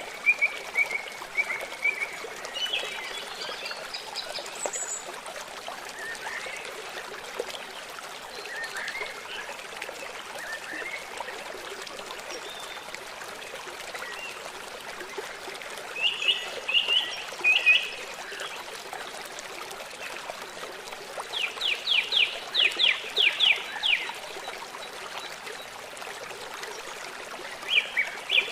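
River water flowing steadily, with small birds chirping over it; about two-thirds of the way in, one bird gives a rapid run of about a dozen sharp notes, and more chirps come near the end.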